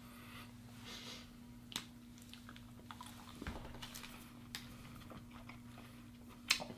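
Faint chewing of a Caramac caramel bar, with a few soft clicks and a sharper tick near the end, over a steady low hum.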